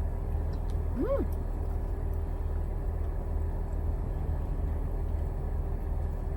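Steady low rumble with a faint steady hum underneath, and a short rising-and-falling hummed 'mm' from a person about a second in.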